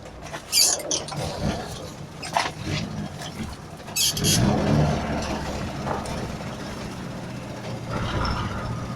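A Moskvich car's engine running as the car drives, growing louder about four seconds in as it pulls, with several short sharp knocks from the car.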